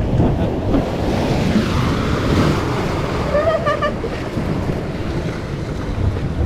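Wind buffeting the microphone over the wash of waves at an ocean inlet: a steady, rumbling noise.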